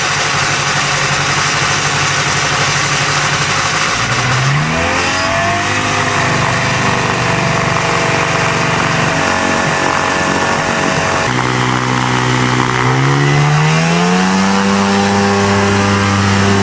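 Small airplane's two-stroke engine running up. It steps up in pitch about four seconds in, eases back briefly around eleven seconds, then climbs again to a higher steady pitch as power builds for the takeoff roll.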